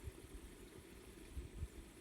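Faint low rumbling with soft irregular thuds, typical of wind buffeting the microphone, over a faint steady high hiss.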